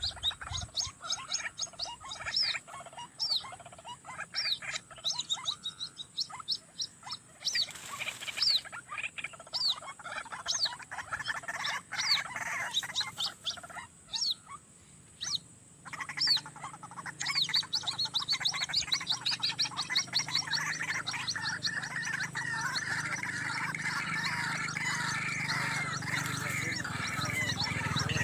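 White-breasted waterhens calling: many short, repeated calls with sharp pitch sweeps, thickening after about halfway into a dense, continuous chorus.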